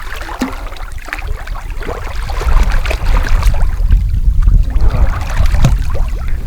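Wind rumbling heavily on the microphone over water lapping and splashing, with many small sharp splashes throughout.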